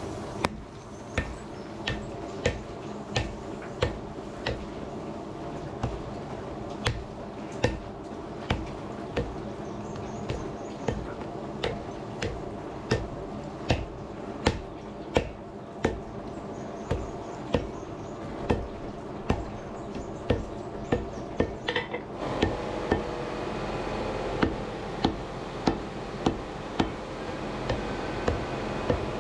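Hammer blows on steel over an anvil during blade forging: a steady run of ringing strikes, about one every three quarters of a second, over a steady background hum that grows louder about three quarters of the way through.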